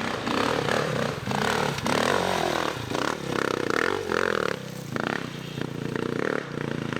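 Dirt bike engine revving hard in repeated surges, rising and dropping about once a second, with scraping and clattering as the bike scrabbles up a steep climb.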